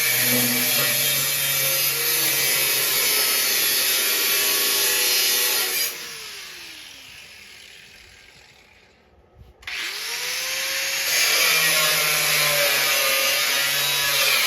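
Handheld grinder cutting into the rusted steel of a snowmobile frame. It is released about six seconds in and winds down with a falling whine, sits silent for a moment, then is restarted about ten seconds in and spins back up with a rising whine before cutting again.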